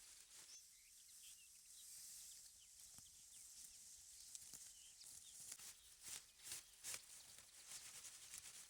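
Near silence: faint outdoor ambience with a high hiss, scattered soft clicks and a few brief faint chirps.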